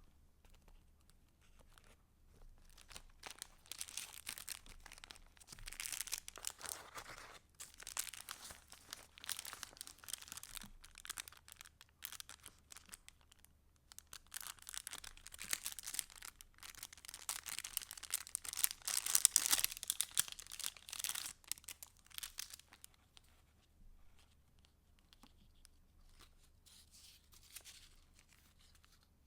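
Paper rustling and crinkling as the pages and paper pieces of a handmade junk journal are handled and turned, in several long stretches. It is loudest about two-thirds of the way through, then gives way to faint, sparse handling ticks.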